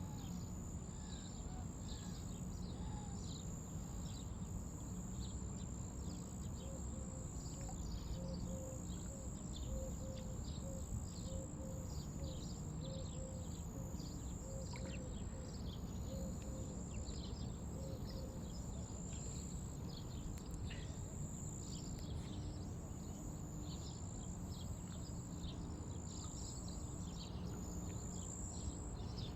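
Outdoor ambience: a steady low rumble with many short, high chirps throughout, and a run of short repeated lower notes in the middle.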